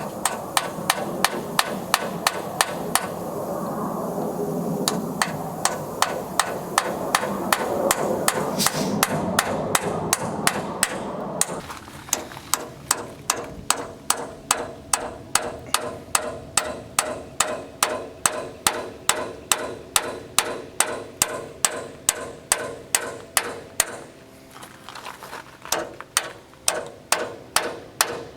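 Hammer striking metal in a fast, even rhythm of about three blows a second, on a hydraulic crane cylinder under repair. A steady running noise sits under the blows for roughly the first twelve seconds and then stops.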